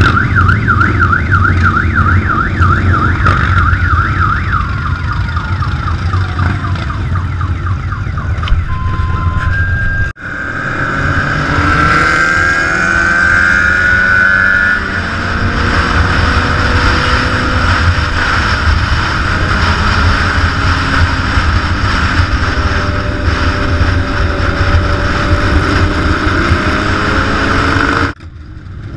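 Electronic siren warbling rapidly at first, then changing to a steadier wail, over the steady rumble of motorcycle engines riding along. There are abrupt cuts about ten seconds in and near the end.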